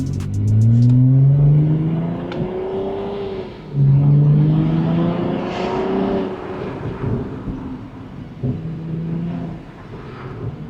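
2020 Acura TLX's 3.5-litre V6 heard from inside the cabin through a custom catback exhaust. The stock resonators and mufflers have been replaced by two Vibrant Ultra Quiet resonators. The engine accelerates hard, its note climbing, then drops back and surges again about four seconds in, before settling to a quieter, steadier cruise.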